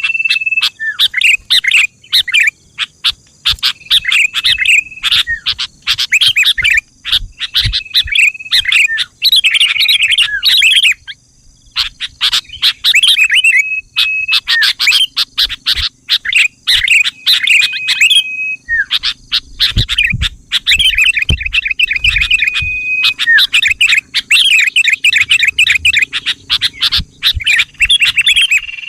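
Sooty-headed bulbul (kutilang) calling and singing: quick runs of bubbly chirps and short warbled phrases, repeated with only brief gaps, over a faint steady high-pitched tone. A few low thumps come about two-thirds of the way through.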